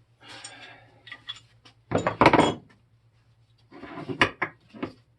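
Metal hand tools clanking and clattering as they are picked up and handled, with a loud clatter about two seconds in and a run of knocks near the end.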